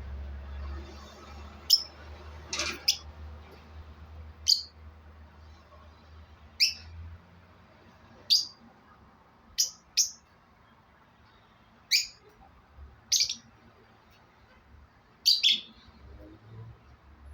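Pet parrot giving short, sharp high chirps, about a dozen single calls and quick pairs spaced a second or two apart.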